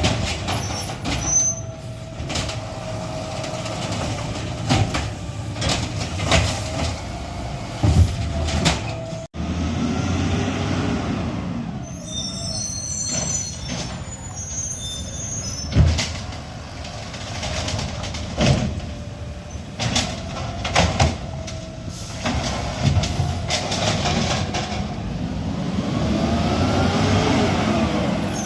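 Garbage truck at work: the engine running and revving up and down, with repeated sharp metallic clanks and bangs.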